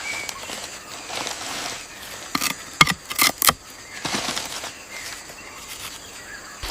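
A quick run of about five sharp taps in the middle, over a steady faint outdoor hiss.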